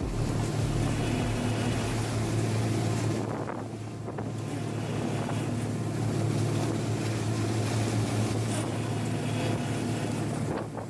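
Boat engine running steadily with a low drone, under wind and water noise; it briefly dips about four seconds in.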